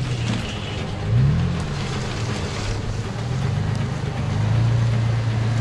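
Off-road 4x4's engine pulling through mud. It revs up and back down about a second in, then runs steadily and a little louder near the end.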